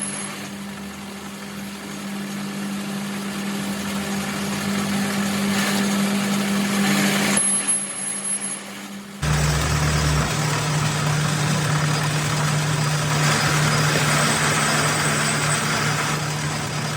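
Car engine idling with a steady hum; about nine seconds in the sound cuts abruptly to another stretch of idling, slightly lower in pitch.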